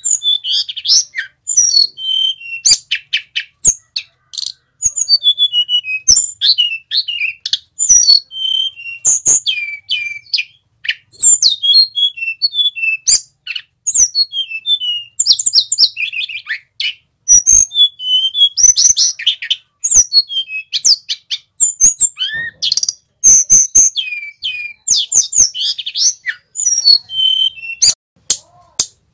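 A male Sulingan Gunung singing a rapid, continuous song of high whistled notes and quick sweeping glides, in phrases broken by short pauses.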